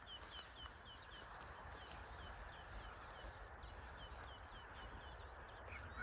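A small bird calling: faint runs of short, repeated chirps, about four a second, with brief pauses between runs. Under it is a steady low rumble and hiss of outdoor air.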